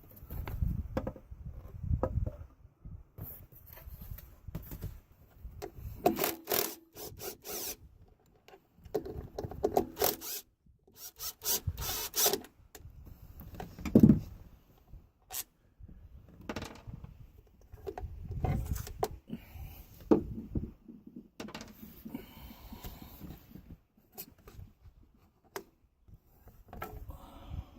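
Irregular handling noises: rubbing and scraping with scattered knocks, one sharp knock about halfway through. No engine is running.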